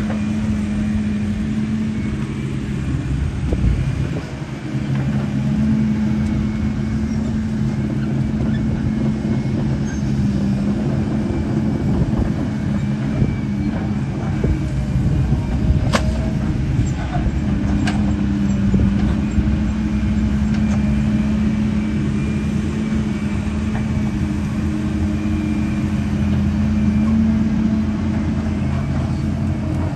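Radio-controlled construction truck running: a steady engine-like drone that shifts a little in pitch, with a few sharp clicks about halfway through.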